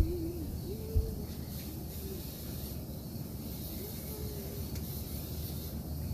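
Steady hiss over a low hum, with faint distant voices and a single low thump about a second in.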